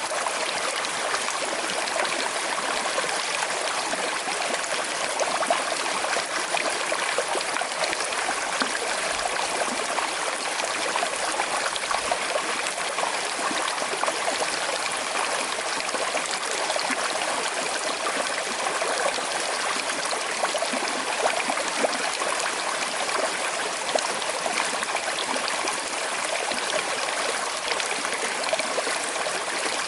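Small, slow-flowing forest river running over stones, a steady burble and trickle of water.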